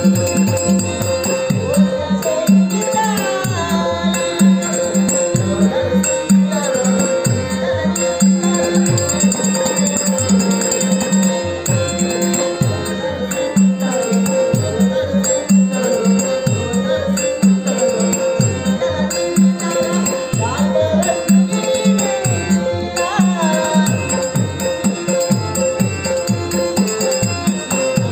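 Traditional Dashavatar stage-song music: a steady drone under a melody that glides up and down, with a drum playing bass strokes that bend down in pitch and small cymbals ticking in time.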